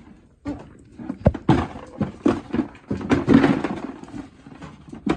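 Goats scuffling in a pen: a string of sharp knocks and thumps at irregular times, with rustling between them.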